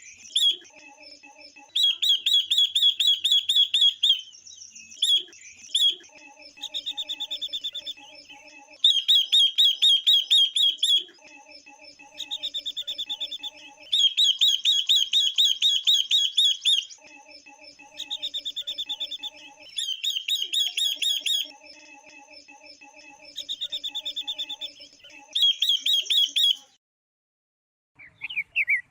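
Female silver-eared mesia and red-billed leiothrix (Pekin robin) calling, the kind of female calls played to excite male birds. The calls come as repeated bouts of fast chattering trills, each about one to two seconds long, with short pauses between them.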